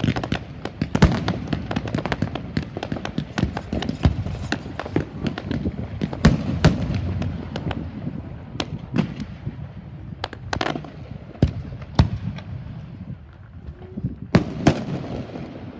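Fireworks going off: a dense run of sharp bangs and crackling over a low rumble, thinning out about halfway through to scattered single bangs, with two loud bangs close together near the end.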